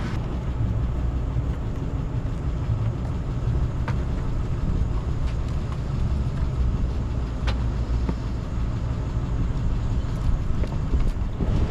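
Steady low rumble of a vehicle engine running, with a couple of faint ticks.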